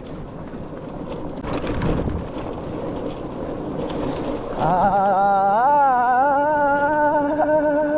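Motorcycle riding noise with wind buffeting the microphone in gusts. From about halfway in, a long held note with a wavering pitch steps up once and carries on.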